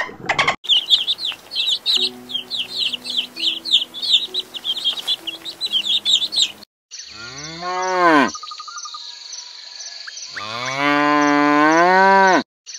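Baby chicks peeping: rapid high chirps, several a second, for about six seconds. Then a Holstein dairy cow mooing twice, a short moo and then a longer, louder one.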